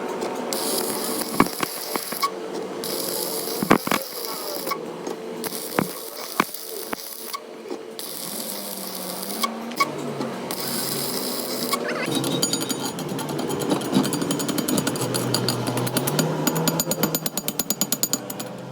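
Workshop metalworking noise: scattered sharp metal knocks over a high hiss, then a rapid rattling power tool from about twelve seconds in.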